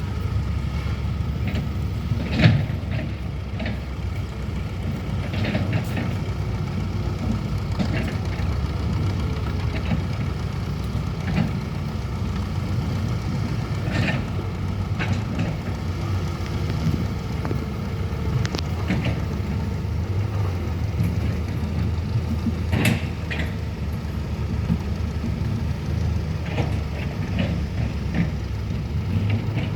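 Excavator engine running steadily while it digs pond soil, with scattered short knocks; the loudest comes about two and a half seconds in and another near 23 seconds.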